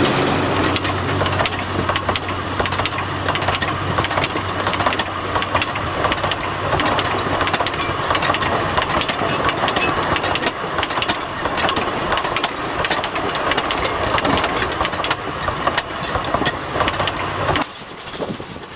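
Narrow gauge salt railway train running, its wagon wheels clattering rapidly over rail joints over a steady low engine hum. The hum and most of the clatter drop away about a second before the end.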